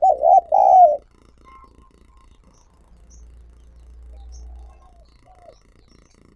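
Spotted dove cooing: one loud two-note phrase in the first second, followed by faint, scattered chirps from other birds.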